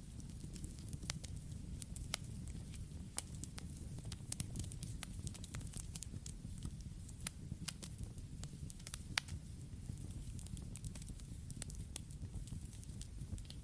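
Campfire crackling: frequent, irregular sharp pops and snaps of burning wood over a steady low rumble of flame.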